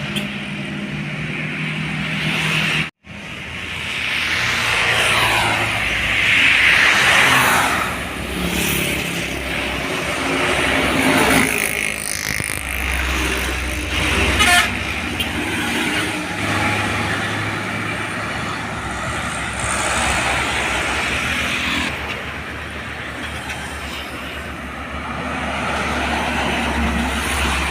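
Road traffic passing, with trucks and other vehicles going by, their engine and tyre noise swelling and fading one after another. The sound cuts out for an instant about three seconds in.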